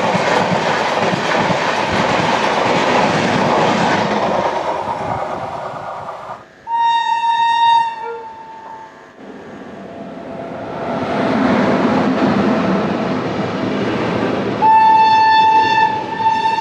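Indian Railways trains running at speed on the line, a steady rush and clatter of wheels on rails as locomotives and coaches pass close by. A locomotive horn sounds twice: a short blast about seven seconds in, and a long steady one starting near the end as another train's coaches pass alongside.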